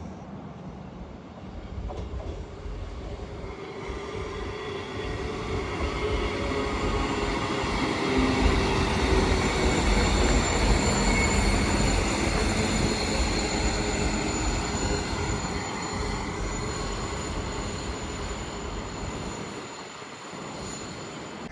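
A train passing: its sound builds over several seconds, is loudest about halfway through, then fades away. Steady high-pitched whining tones run through the pass.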